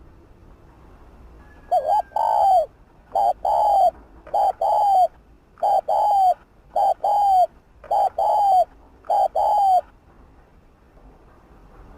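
Spotted dove cooing: a run of loud, hoarse coos, mostly in quick pairs, starting about two seconds in and stopping near ten seconds.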